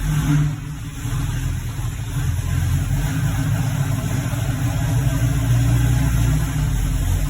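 Classic car engine idling steadily just after being started, with a deep, even exhaust note.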